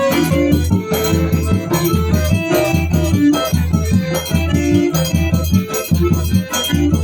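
Live forró music: an accordion playing a tune over a steady, danceable beat with a shaker.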